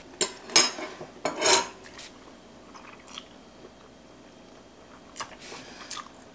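A person chewing a mouthful of tender butter-grilled abalone, with two short noisy mouth sounds in the first two seconds and then a few faint clicks.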